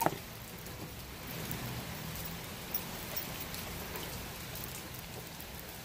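Steady rain falling and pattering on the surfaces around, with one sharp click right at the start.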